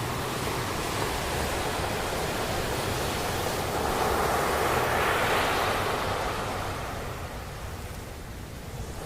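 Sea waves breaking on a beach: the surf swells to a loud wash about halfway through, then recedes and quietens near the end.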